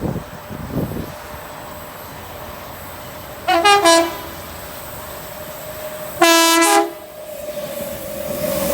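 Electric passenger train's horn sounding two short blasts about two and a half seconds apart, each about half a second long. Train noise grows louder under it near the end as the train approaches.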